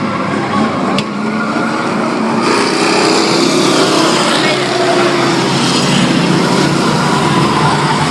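Engines of several classic race trucks running hard as the field races by, a dense mix of engine noise that gets louder about two and a half seconds in. A single sharp click about a second in.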